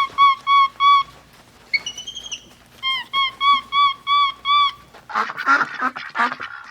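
Domestic waterfowl calling: two runs of short, evenly spaced honks, about four a second, with a longer rising call between them. From about five seconds in, a dense, harsher run of rapid quacking calls takes over.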